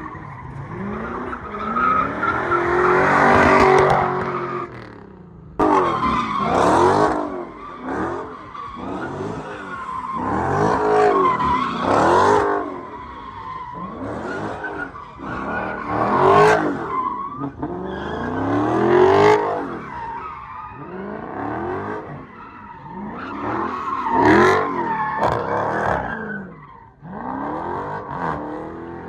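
A car engine revved up and down over and over, about once a second, with tyres squealing, as in a burnout or donuts. There is a sudden break and restart about five seconds in.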